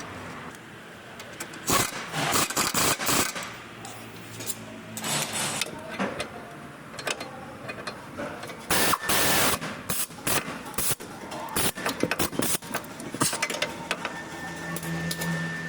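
Metal hand tools working on a car's suspension: sharp clicks and knocks with several short bursts of rapid rattling. A steady high tone comes in near the end.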